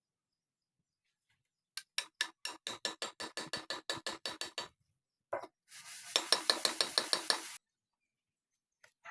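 A rapid run of metallic clicks, about six a second for some three seconds, then a shorter, denser burst of clicks over a rasping noise a little later.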